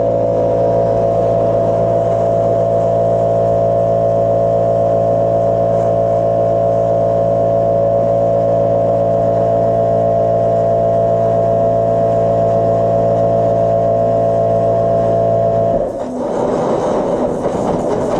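A machine running with a steady hum and a strong pitched whine, giving way about sixteen seconds in to a rough, crackling noise.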